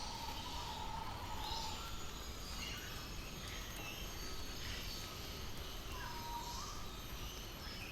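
Several birds calling: scattered short chirps, a held whistle that stops about one and a half seconds in, and a dipping call about six seconds in, over a steady low background rumble.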